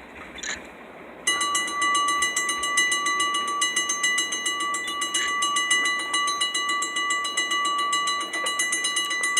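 Railroad grade-crossing warning bell ringing steadily with a fast, even ding, starting suddenly about a second in.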